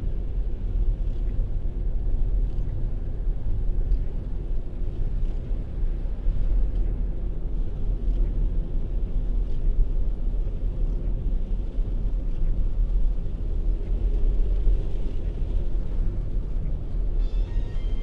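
A car driving, with a steady low rumble of engine and road noise. Music comes in near the end.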